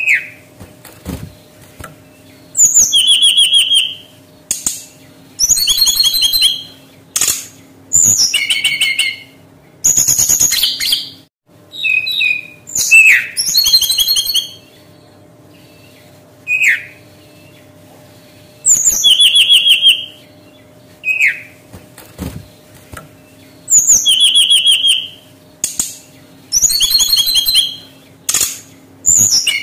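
Brown-chested jungle flycatcher singing: loud phrases of rapid, bright trilled notes about a second long, repeated with short pauses, mixed with single short downslurred whistles. A faint steady low hum lies beneath.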